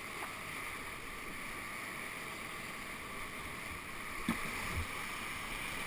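Steady rush of whitewater in a man-made channel, with two short knocks a little past halfway.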